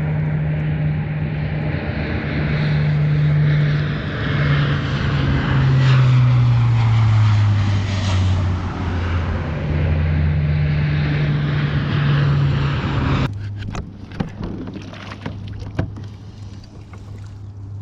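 A boat engine running under a loud rush of wind and water, its pitch dropping as it slows partway through. It cuts off abruptly near the end, giving way to a lower, steady engine hum with light clicks.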